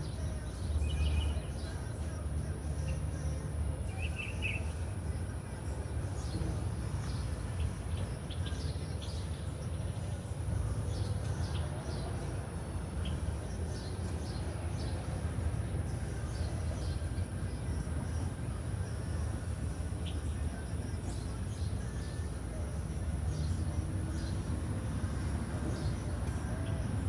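Steady low outdoor rumble with a thin, steady high whine. A few short bird chirps come about a second in and again around four seconds in, along with scattered faint ticks.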